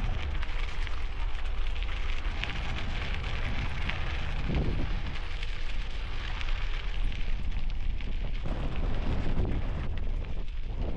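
Bicycle tires crunching and crackling steadily over gravel, under a heavy low rumble of strong wind buffeting a helmet-mounted microphone.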